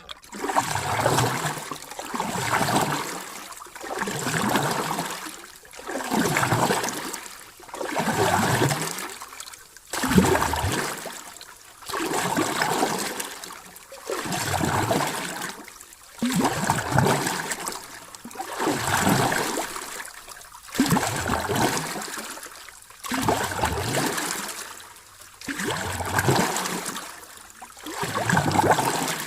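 Sea waves washing in and drawing back, a surge about every two seconds in an even rhythm.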